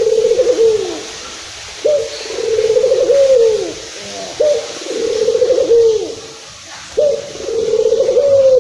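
Local puter dove (ringneck turtle dove) cooing repeatedly: three full coos, each starting abruptly, rolling through a trilled middle and falling away at the end, roughly every two and a half seconds.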